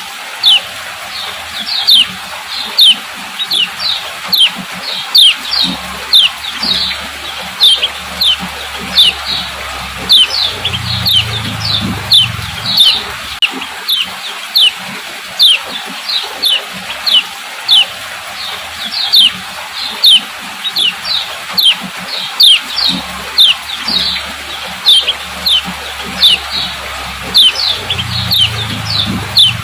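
Female lemon-bellied white-eye (kecial kuning) giving its 'ciak ciak' call: short, sharp, falling chirps repeated about twice a second over a steady hiss. This is the female call used to prompt males to sing.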